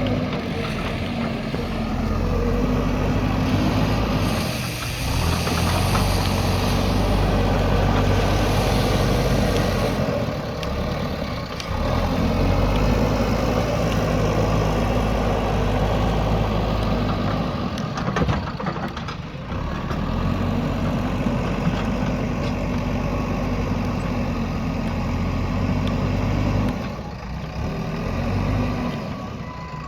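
JCB backhoe loader's diesel engine running, its note easing off and picking up again every few seconds as it works, with a short burst of clatter about two-thirds of the way through.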